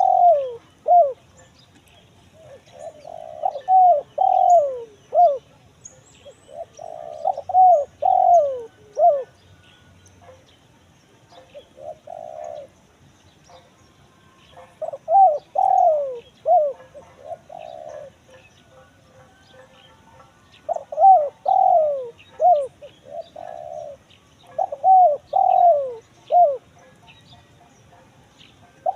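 Spotted dove (tekukur) cooing in the crisp 'kuk 1 mersik' song type: phrases of several falling coos repeated every few seconds with short pauses, a call recording used to lure wild doves.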